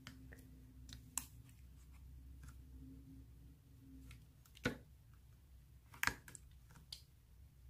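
Slime being handled, giving a few separate sharp clicks and pops, the loudest about two thirds of the way in, over a faint steady hum.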